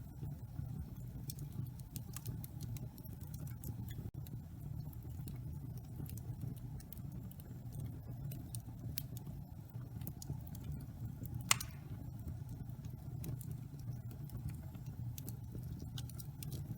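Wood fire burning in a fireplace: a steady low rumble of flames with scattered small crackles, and one sharper pop about two-thirds of the way through.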